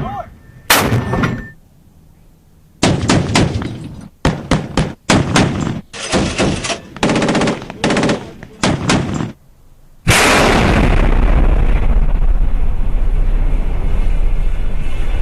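Gunfire sound effect: a single gunshot, then about seven short bursts of rapid automatic fire. About ten seconds in, a loud steady rushing rumble starts suddenly and continues.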